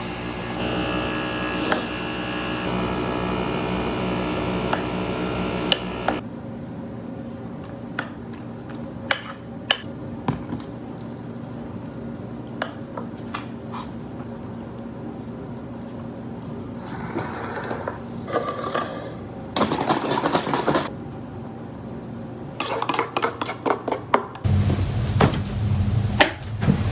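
Kitchen clatter: scattered clinks and knocks of dishes and utensils, with a few seconds of rushing noise part way through. The first few seconds hold steady music.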